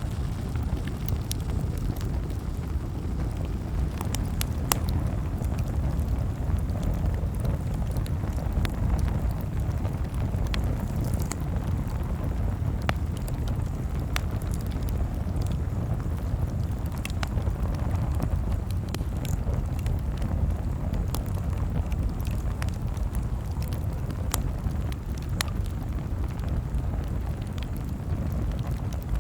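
Campfire crackling, with scattered sharp pops and snaps at irregular intervals over a steady low rumble.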